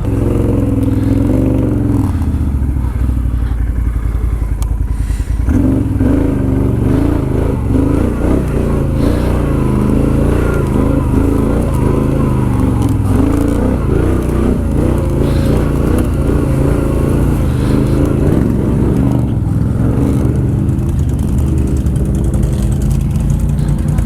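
Can-Am Outlander 1000 ATV's V-twin engine running on the throttle, its pitch rising and falling as it is worked along a tight, rough trail, with a brief dip about five seconds in.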